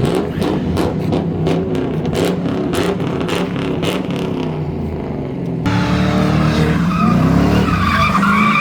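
A car sliding under power: its engine is revving hard throughout, and about five and a half seconds in the tyres break into a loud, wavering squeal as it slides.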